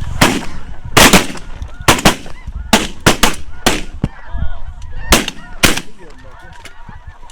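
A rapid volley of about eleven shotgun shots from several hunters firing at decoying geese, coming in quick pairs and singles over the first six seconds, with geese honking between the shots.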